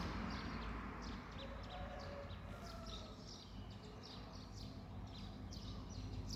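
Small birds chirping outside: many short, high, quick chirps in rapid succession, over a faint low background rumble.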